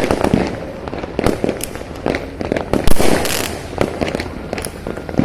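Many fireworks going off across a city at once: a dense, irregular run of distant bangs and crackles overlapping one another, with one louder bang about three seconds in.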